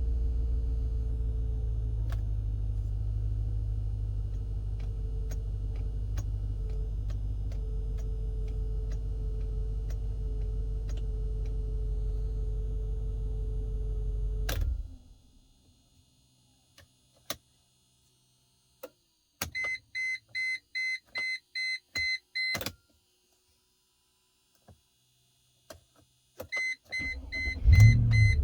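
Mercedes C43's 4.3-litre V8 idling steadily, then switched off about halfway through. After a few clicks comes a rapid electronic beeping lasting about three seconds, then more clicks. Near the end the engine cranks and starts with a brief surge and settles back to idle, with the beeping starting again.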